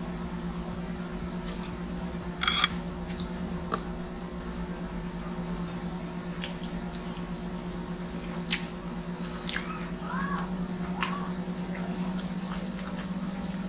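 Close-up mouth sounds of someone eating pizza: wet chewing and biting with scattered small clicks, and a short louder rattle about two and a half seconds in. A steady low hum runs underneath.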